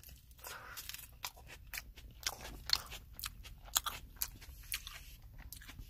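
Crisp lettuce leaf being bitten and chewed close to the microphone: a quick, irregular run of small crunches.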